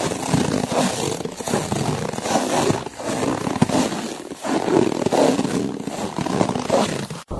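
Footsteps crunching through snow, a run of grainy crunches with a rise and fall about every second and a half. The sound cuts off abruptly near the end.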